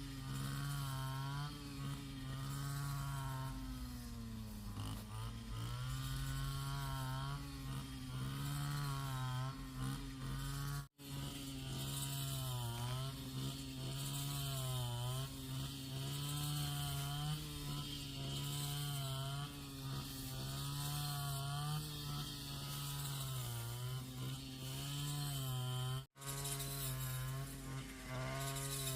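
Small petrol engine running steadily, its pitch dipping and rising again and again as it takes and sheds load. It cuts out abruptly twice, for a split second each time.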